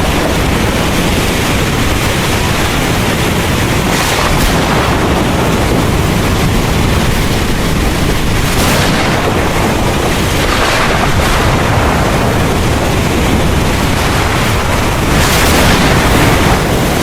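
Heavy rain falling steadily under a continuous low thunder rumble, with a few brief louder bursts of thunder or gusts of wind spread through.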